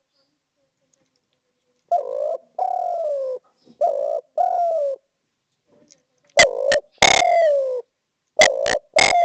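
Spotted dove (derkuku) cooing: silent at first, then two phrases of four short coos each, starting about two seconds in and again past six seconds, each note sliding slightly down in pitch.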